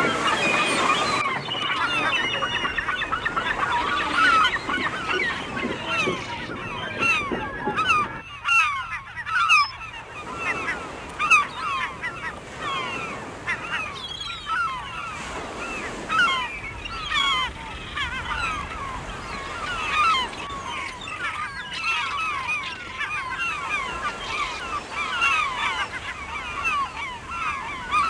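A flock of gulls calling, many short cries overlapping one another without a break.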